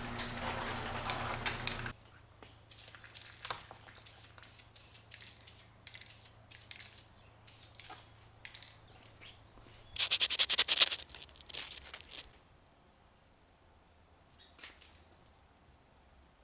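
Hand-work noises on parts: a low hum that stops about two seconds in, then scattered light clicks and taps, and a loud rapid scraping rattle lasting about two seconds near the middle, followed by one faint click.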